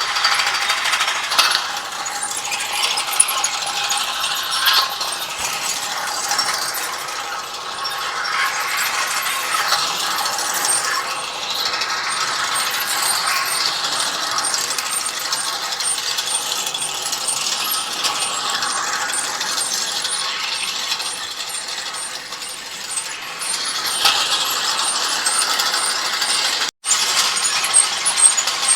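Hay bale elevator running, its chain conveyor rattling and clicking steadily, with a momentary drop-out near the end.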